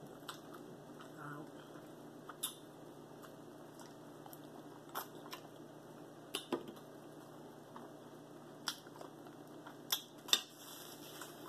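A person chewing barbecue eaten by hand, with quiet mouth sounds and about eight short, sharp clicks scattered through.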